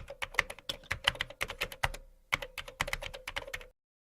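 Rapid typing on a computer keyboard, a quick run of key clicks with a brief pause about halfway, stopping abruptly near the end.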